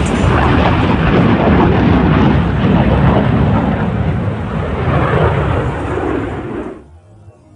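F-35 fighter jet's single Pratt & Whitney F135 afterburning turbofan roaring loudly as the jet makes its high-speed pass, cutting off abruptly near the end.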